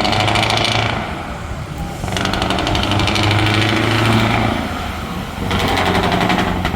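Open-piped V8 truck engine revved hard in three long bursts, a fast rattling exhaust pulse at each one, for a loudness contest.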